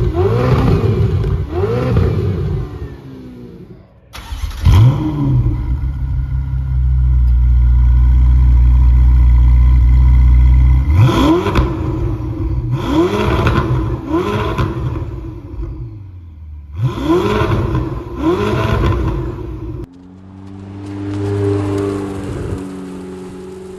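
Ferrari 488's twin-turbo V8 through an aftermarket valved exhaust, revved in quick blips that rise and fall, with several seconds held at steady high revs in the middle. Near the end the sound changes to a steadier engine note that swells and eases off.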